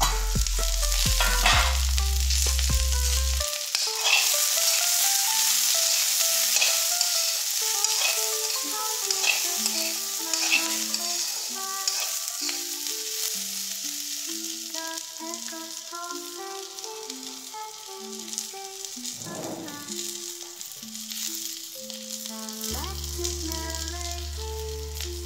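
Chopped green beans sizzling in hot oil in a kadai, stirred and scraped with a steel spatula, a steady hiss with scraping strokes, over background music.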